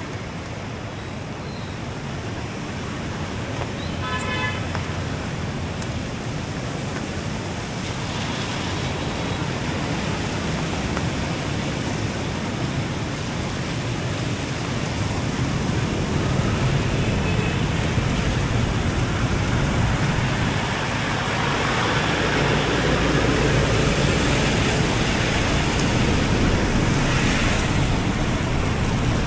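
Steady road traffic noise that grows gradually louder, with a short vehicle horn toot about four seconds in.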